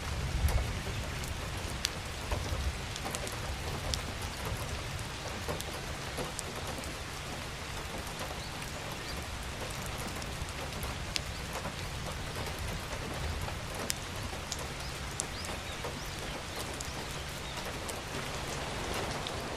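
Steady rain falling, with single drops ticking sharply now and then and a low rumble about half a second in.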